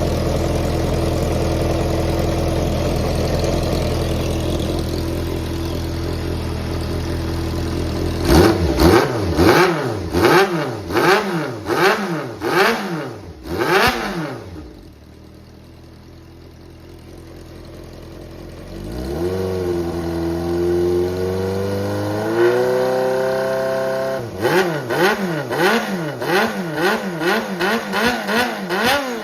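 Yamaha XJR400 (4HM) air-cooled inline-four engine running: idling steadily, then revved in quick throttle blips about a second apart, dropping to a quiet idle around the middle, climbing to a held higher speed, and blipped rapidly again near the end. The engine runs cleanly, with no abnormal noises according to the seller.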